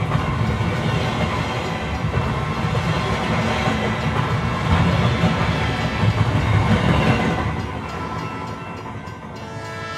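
Train running along the track: a steady low rumble that fades after about seven and a half seconds. Right at the end, a train horn begins to sound several steady notes at once.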